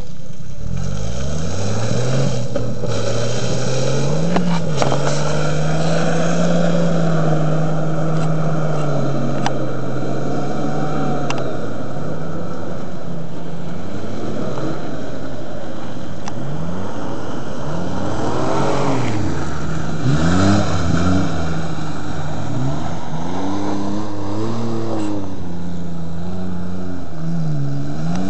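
4x4 off-roader's engine revving while driving through mud, held fairly steady for several seconds, then rising and falling quickly over and over in the second half.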